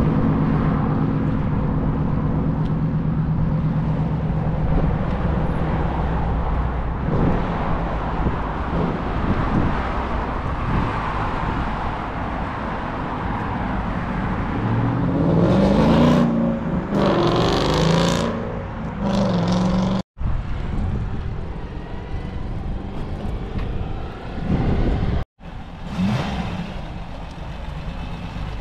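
Car engines running, with a rev that rises and falls about halfway through as a car pulls away. The sound cuts out completely for an instant twice in the second half.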